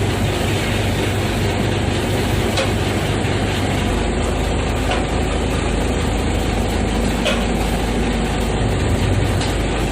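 Boat engine running steadily with a low hum, under a constant rush of noise.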